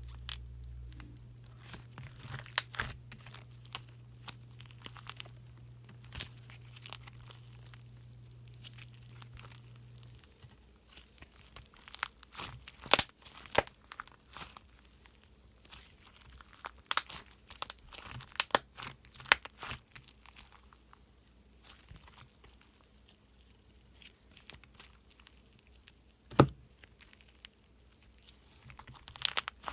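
Slime being worked by hand, giving off irregular sticky clicks and crackles, denser and louder through the middle. A low steady hum underneath stops about a third of the way in.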